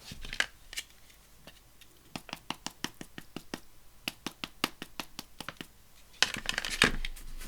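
Small rubber stamp tapped again and again on a VersaFine ink pad to ink it: a quick run of light taps, about four a second, followed by a short rustle near the end.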